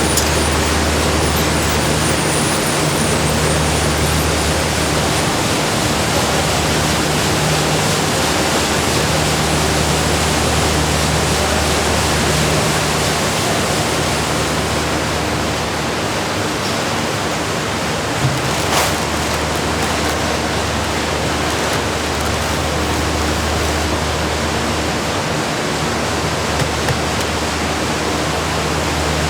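Loud, steady snack-factory machinery noise: an even hiss like rushing air, with a low hum underneath.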